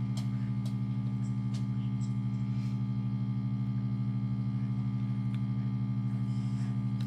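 Resin debubbler's pump motor running with a steady low hum, with a few faint clicks.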